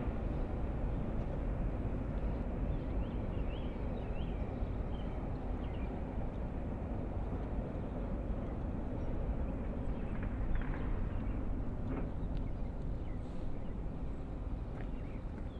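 Steady rumble and wheel noise of a double-stack intermodal container train rolling away down the track, easing slowly as it recedes. A few short high chirps about three seconds in.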